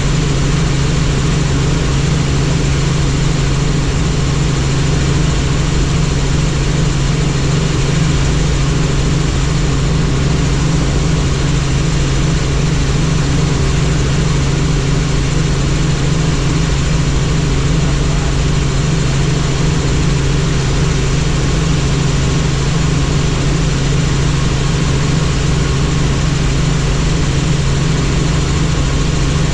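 Helicopter in flight: a steady, loud turbine and rotor noise with a fast, even low rotor beat.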